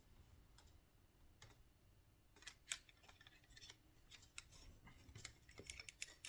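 Faint scattered clicks and taps of small helicopter kit parts and screws being handled while fitting frame sections together, a few sharper clicks about midway and near the end.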